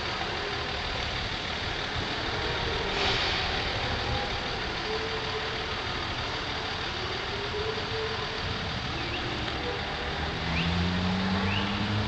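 Motor vehicle engines running, with a louder low engine note building and rising slightly in pitch near the end, and one short knock about three seconds in.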